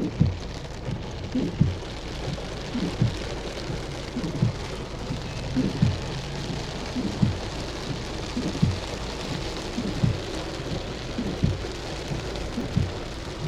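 Heavy rain falling in a steady hiss, with short low thuds recurring about every three-quarters of a second.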